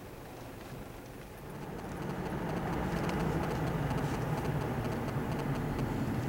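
Safari vehicle's engine running, heard from inside the car; it grows louder about two seconds in, as if pulling away, then holds steady.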